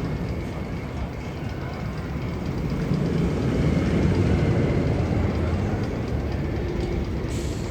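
Steady low rumble like a train running on rails, swelling about halfway through, with faint rapid ticking above it.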